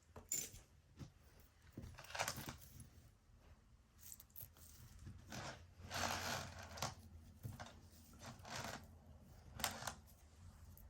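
Pieces of costume jewelry being handled and set down: faint, scattered small clinks and rustles.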